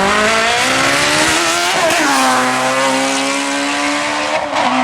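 Racing sportscar engine accelerating hard, its pitch climbing, then dropping abruptly at an upshift about two seconds in. It climbs again and shifts once more near the end.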